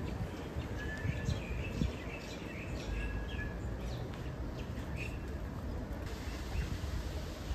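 Birds chirping in short calls and brief whistles over a steady low rumble of outdoor background noise. The calls come mostly in the first five seconds.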